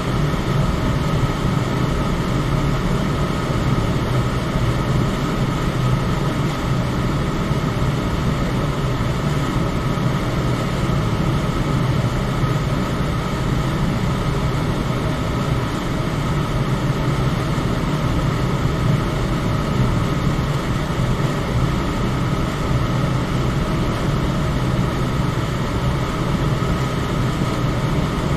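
Electric fan running steadily, a constant whooshing drone strongest in the low end with a faint steady whine above it.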